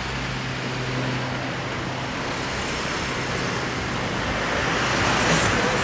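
Road traffic: cars driving past, engine hum and tyre noise, growing louder near the end.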